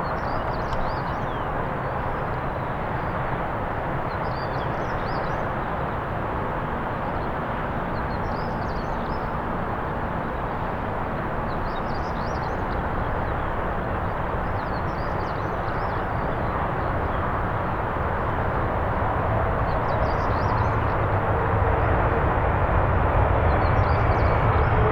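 Airbus A330-200 airliner approaching to land, its jet engine noise a steady rush that slowly grows louder, with engine tones coming through near the end. Short high chirps recur every few seconds.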